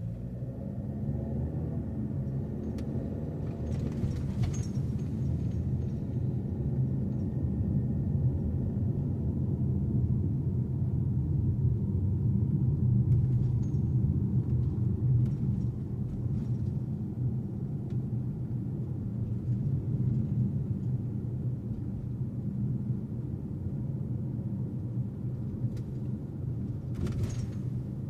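Car driving on the road, heard from inside the cabin: a steady low rumble of engine and tyre noise that swells up in the first second, with a couple of brief whooshes.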